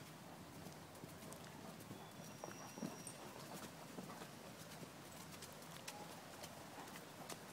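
Horses' hooves clip-clopping at a walk on a woodland track, faint irregular knocks and clicks.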